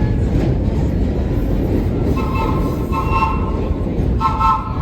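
Subway train rumbling on the track, with its horn sounding a chord of notes in two short blasts from about two seconds in, then a longer blast near the end.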